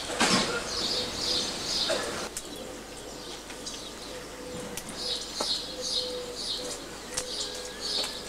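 Small birds chirping in repeated short, high calls, about two a second for stretches, with a short burst of noise right at the start and a few faint clicks.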